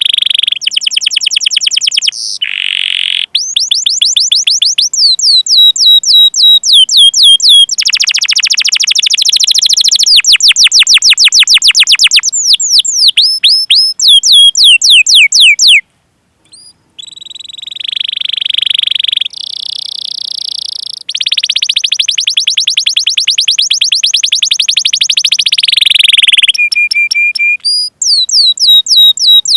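Domestic canary singing a long song: fast runs of repeated high, downward-sweeping 'cuit cuit' chirps alternating with dense rolling trills. There is one break of about a second just past the halfway point.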